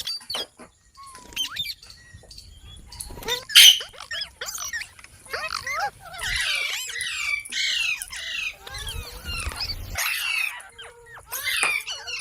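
Pet parrot squawking and calling: a few scattered calls, one loud squawk about three and a half seconds in, then a dense run of short calls that sweep up and down in pitch.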